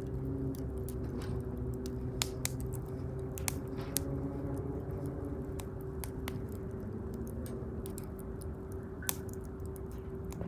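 Wood campfire crackling, with scattered sharp pops over a steady low hum.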